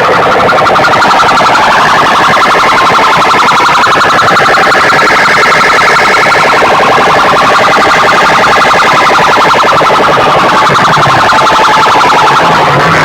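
Very loud, distorted siren-like electronic wail blasted through a competition PA sound system's horn loudspeakers, pulsing rapidly while its pitch slowly rises and falls.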